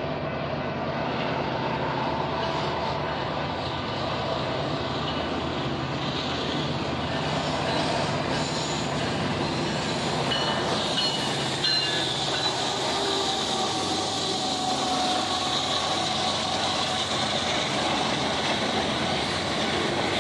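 Grain train passing: two Union Pacific diesel locomotives rumble past, pulling covered hopper cars. The rumble grows louder as the locomotives draw level, then settles into the steady sound of the cars rolling by.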